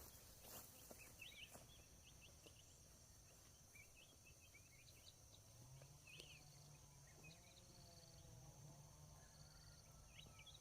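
Faint outdoor ambience in wet fields: a steady high insect drone with scattered short chirps, and a faint low droning call in the second half.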